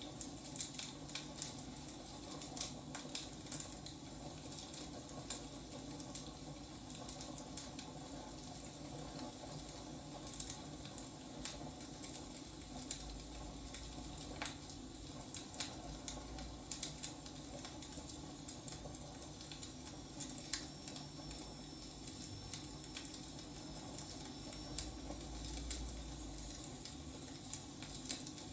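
Burning firewood crackling and popping in irregular small snaps over a soft hiss, with a faint high whistle for a few seconds in the latter part.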